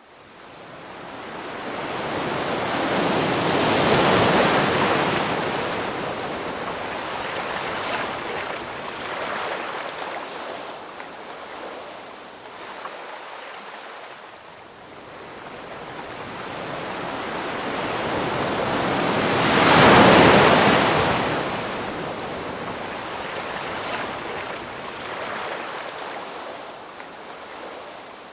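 Ocean waves surging and washing in. Two larger waves build and break, about four seconds in and again about twenty seconds in, with quieter surf wash between them.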